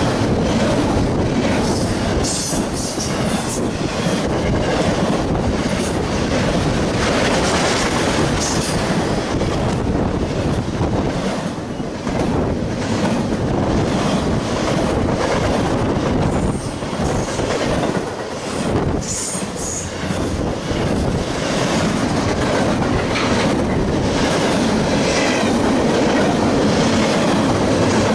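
Double-stack intermodal freight cars of a CSX train passing close at speed: a steady loud rumble of wheels on rail with clicking over the joints and a few brief high wheel squeals.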